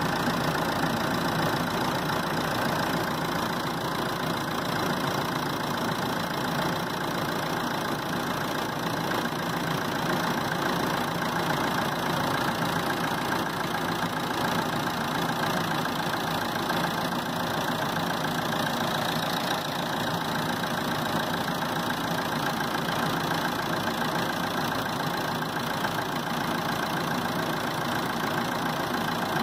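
Car engine idling steadily with the air conditioning switched on and its compressor running, just after the system has been recharged with refrigerant.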